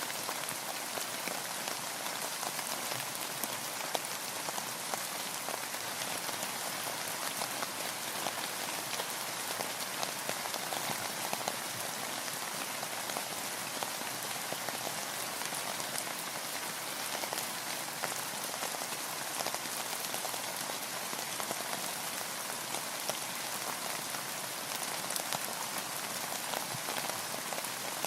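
Steady rain, an even hiss dotted with many individual drops ticking close by.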